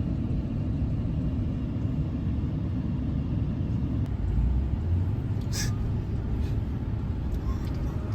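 Steady low rumble of a vehicle driving on the road, as heard from inside the cabin, with one short hiss about five and a half seconds in.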